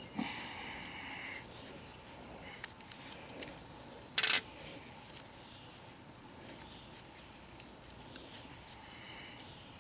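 Small parts of a trimmer's muffler and spark arrestor screen being handled while a bolt is fitted: light clicks and scrapes, a brief squeak near the start and again near the end, and one short sharp clack about four seconds in.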